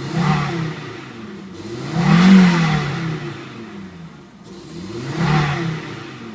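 Audi UrS6 engine, warm-running just after a cold start, revved with three throttle blips, each rising and falling in pitch; the middle one, about two seconds in, is the loudest. The owner notes that the engine stumbles when the throttle is pressed.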